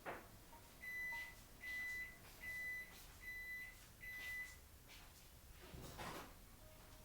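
Five electronic beeps at one high pitch, each about half a second long and evenly spaced, followed a little later by a soft rustle.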